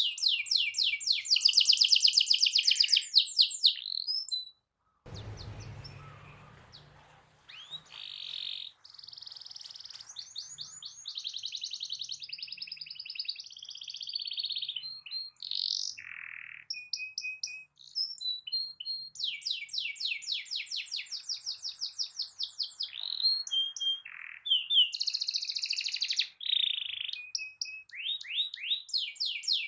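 Domestic canary singing long, rapid rolling trills of fast repeated high notes, with short breaks between phrases. About five seconds in the song pauses while a brief low rumble is heard.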